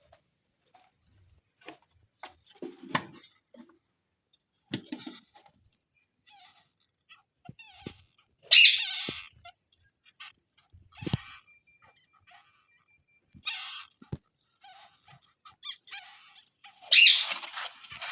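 Parrots calling: scattered soft chirps and light knocks, with two loud harsh squawks, one about halfway through and one near the end.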